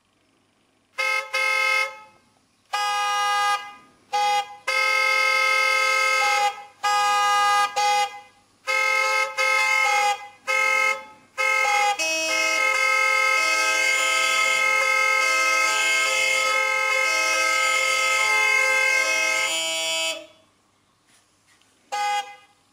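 A multi-tone vehicle horn sounding about ten blasts of varying length in quick succession, then one long blast of about eight seconds in which the lower notes change in a pattern, and one short toot near the end.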